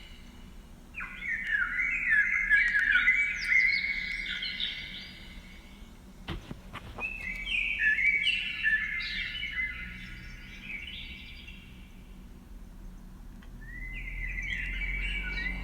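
Birdsong in three long bursts of quick, gliding chirps with short pauses between them. A single click or tap comes in the middle, between the first two bursts.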